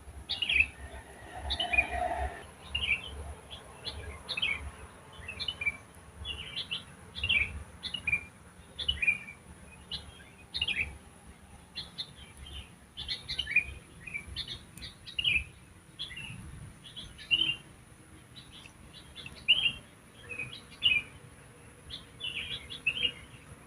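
Songbirds chirping in the wild: short, bright phrases repeated about once a second, with a faint steady high-pitched hiss underneath.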